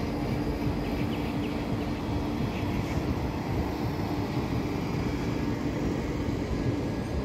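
Electric train running: a steady rumble with a constant low hum over it.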